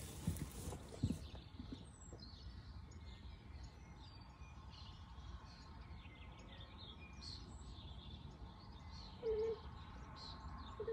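Faint outdoor birdsong: scattered small, high chirps from several birds. Two dull thumps come about a second in, and a short low-pitched call, the loudest sound, comes near the end.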